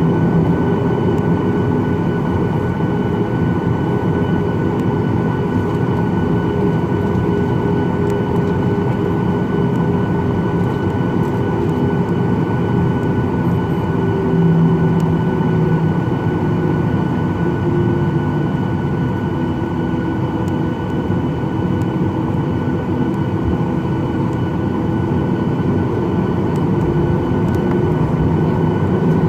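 Steady cabin drone of a Boeing 737-800's CFM56 jet engines at low taxi power, heard from inside the cabin: a rumbling roar under several constant whining tones, one of which wavers slightly in pitch.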